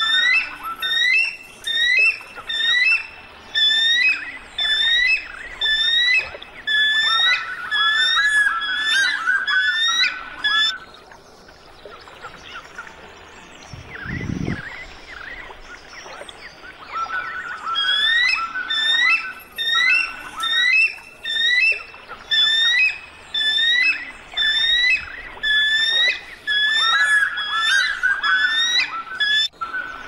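Birds singing: quick, repeated chirping phrases about once a second, in two long bouts with a pause of several seconds between them. A single brief low thump comes in the pause.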